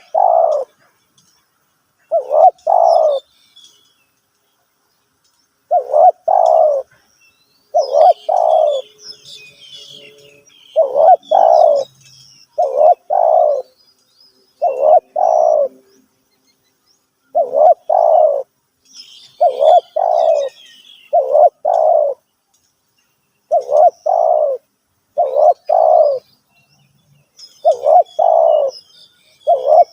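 Spotted dove cooing over and over: short two-note coos, one pair every two seconds or so. Small birds chirp faintly in the background.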